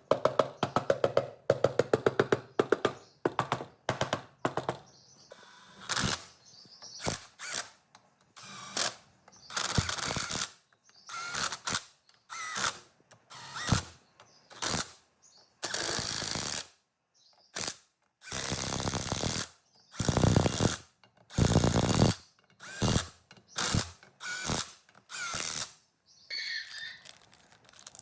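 Hand tools working on metal engine parts: rapid clicking for about the first five seconds, then a series of separate scraping strokes, most under a second long.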